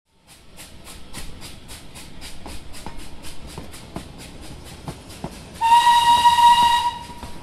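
A train's wheels clicking rhythmically over rail joints, about four to five clicks a second. About two-thirds of the way in comes a single steady whistle blast lasting just over a second, the loudest sound.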